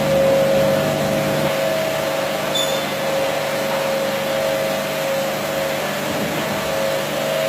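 Carpet-washing machine running steadily: a constant motor whine over an even rushing noise.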